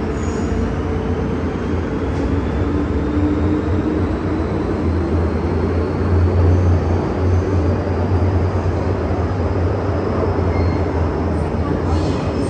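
MTR M-Train electric multiple unit running between stations: a steady rumble of wheels on rail with a low hum and a faint, slowly rising whine.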